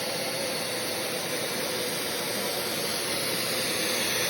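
Mondial vacuum cleaner running steadily: an even rushing of air with a steady hum.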